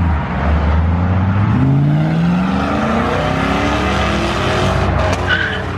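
Loud car engine accelerating hard, its pitch climbing for about a second and a half before levelling off.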